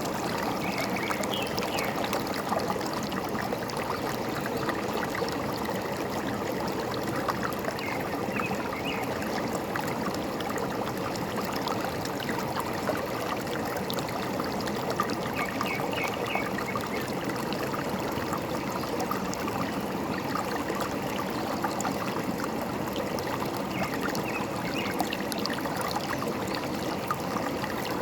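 A forest stream running and trickling steadily, with brief bird chirps about every eight seconds.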